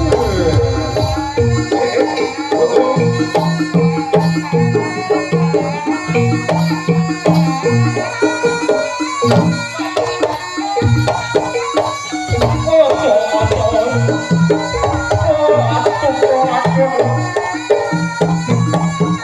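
Jaranan music: a Javanese ensemble playing drums in a steady, busy rhythm under layered pitched instruments.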